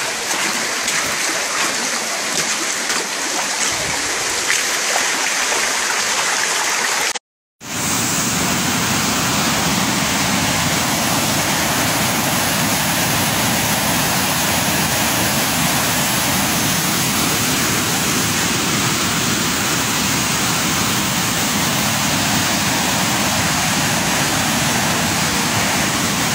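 Floodwater rushing steadily. The sound cuts out for a moment about seven seconds in, then comes back steadier and fuller.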